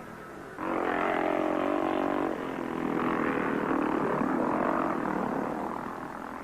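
Motocross motorcycle engines running hard in practice. A loud engine note comes in about half a second in, shifts pitch a couple of times, and fades a little near the end.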